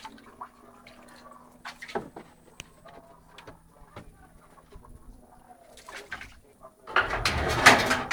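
Chickens clucking now and then among scattered light knocks, then a loud rushing noise for about a second near the end.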